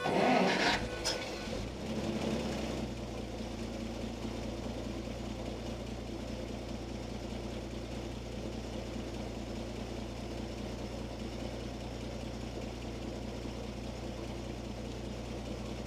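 1946 Dodge truck's stock flathead six engine starting, a loud ragged burst in the first couple of seconds, then settling into a steady idle.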